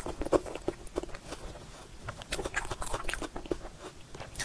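Close-miked eating sounds: chewing and wet mouth smacks and clicks of eating spoonfuls of soft cream cake, coming irregularly.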